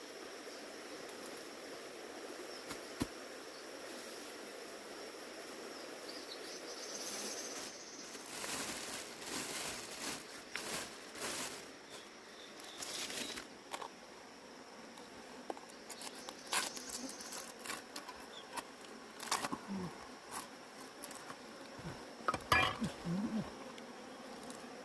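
Insects chirring steadily at a high pitch, with bursts of rustling and scraping noises starting about eight seconds in.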